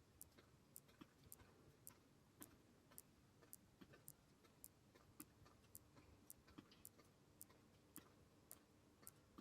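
Faint, evenly spaced sharp ticks, about two a second, over a low hiss.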